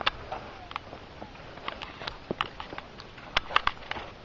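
Faint, irregular clicks and taps, a dozen or so scattered through, over a low hiss.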